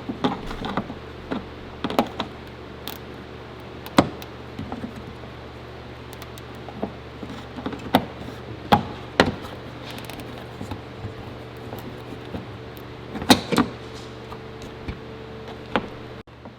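Scattered sharp clicks, knocks and clatters of hand tools and parts being worked loose on a car's front end, over a steady low hum.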